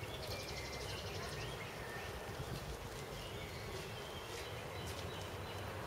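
Small birds chirping, with a fast trill early on and short chirps repeating throughout, over a steady low outdoor rumble.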